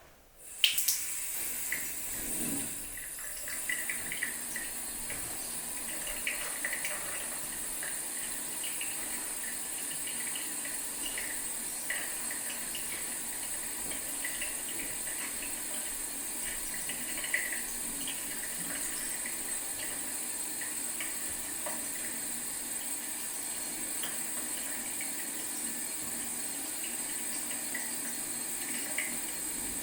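Leaky faucet running, water trickling and splashing into a sink in a steady stream with many small irregular splashes. It starts abruptly with a sharp knock about a second in.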